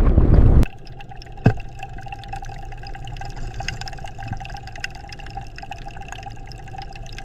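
Water dripping and trickling, with many small clicks over a steady hum. A loud low rumble cuts off suddenly within the first second, and there is a sharp knock soon after.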